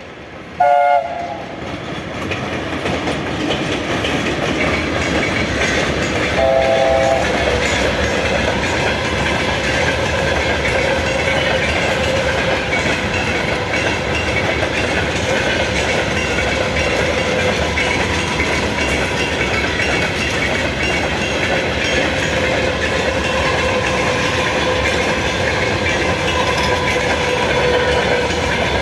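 VL10 electric locomotive sounding its horn twice: a very loud short blast about half a second in and another short blast around six and a half seconds in. The train then rolls past continuously, with wheel clickety-clack on the rail joints and a steady whine over the rumble.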